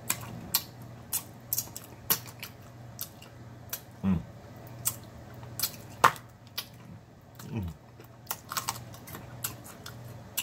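Close-miked chewing of rotisserie chicken: irregular wet mouth clicks and lip smacks, about one or two a second, over a faint steady low hum. Twice a short low falling hum comes from the eater.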